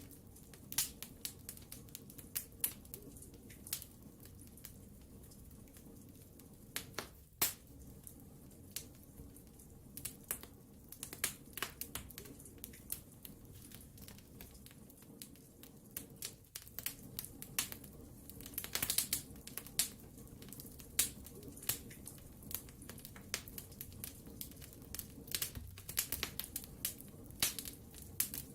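Wood fire in a fireplace crackling: irregular sharp pops and snaps over a soft low background, with a denser flurry of crackles about two-thirds of the way through.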